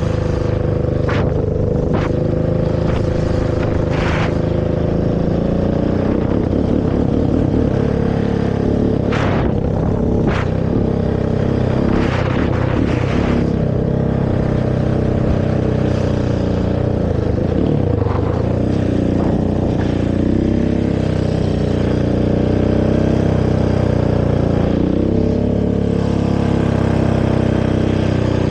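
Honda TRX450R quad's single-cylinder four-stroke engine through its stock exhaust, revving up and down as it is ridden, with a few sharp clacks.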